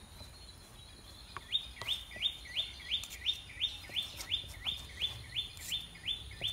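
A bird calling over and over, a short rising note repeated about three times a second, starting about a second and a half in.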